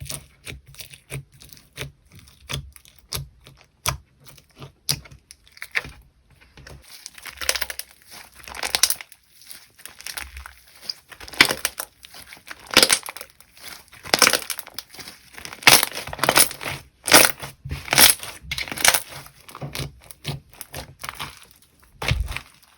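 Slime being pressed and squished by hand, giving crisp crackling and popping clicks. Scattered at first, they thicken into dense crackly runs about seven seconds in.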